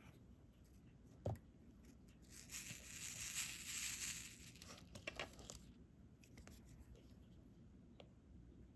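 Faint plastic crinkling and rustling for about two seconds, with a few light clicks before and after it.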